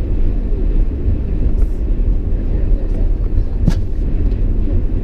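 Steady low rumble of a truck driving down the road, heard from inside the cab, with one sharp click about three and a half seconds in.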